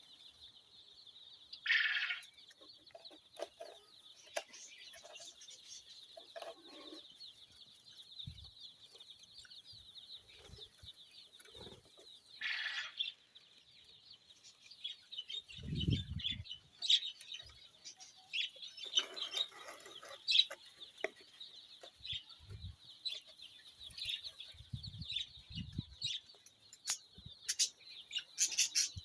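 Many caged birds chattering together: a dense, steady high-pitched chirping, with louder squawks about two and twelve seconds in and a few low thumps in the second half.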